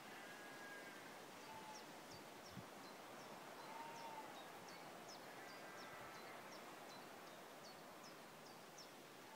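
Near silence: faint outdoor ambience with a small bird giving a long series of short, high chirps, about two a second.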